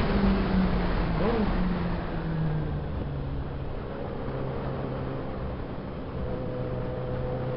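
Suzuki Bandit 650S inline-four engine coming off the throttle: the revs fall over the first few seconds, with a quick blip about a second in, then the engine runs steadily at lower revs. Wind rush fades as it slows.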